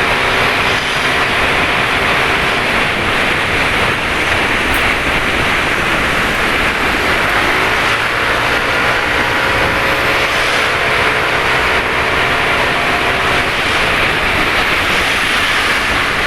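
Steady, loud rush of wind and road noise from riding in motorcycle traffic, with the hum of motorcycle engines underneath that slowly rises and falls in pitch.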